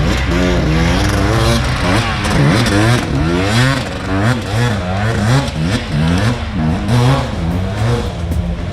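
Several dirt bike engines revving, their pitch rising and falling over and over as they accelerate and shift, the sounds overlapping one another.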